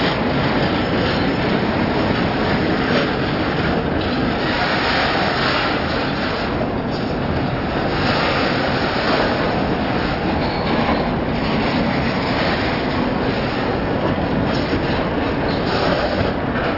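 Freight train cars rolling past at close range: a steady, loud noise of steel wheels running on the rails.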